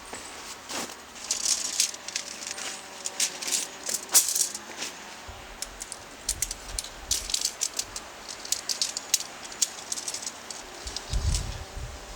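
Irregular clicks and rattles, as of small hard objects or gear being handled, coming in quick clusters.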